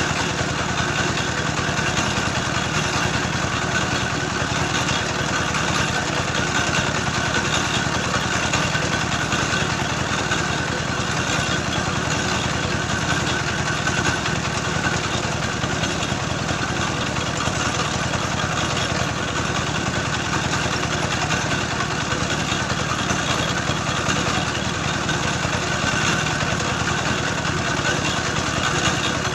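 Engine-driven soil-grinding mill running steadily, grinding clay into mix for red bricks.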